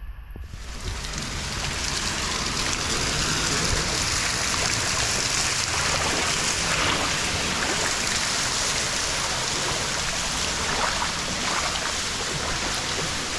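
Steady rush of falling, splashing water from a waterfall. It swells in over the first second or two and then holds even, with a fine crackle of spray through it.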